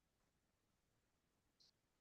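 Near silence, with one faint, brief high-pitched tick about one and a half seconds in.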